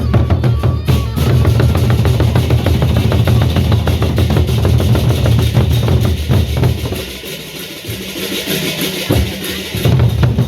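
Procession band drumming: fast, dense strokes over a heavy bass drum. About seven seconds in the bass drops away, leaving lighter, cymbal-like hits, and the bass returns near the end.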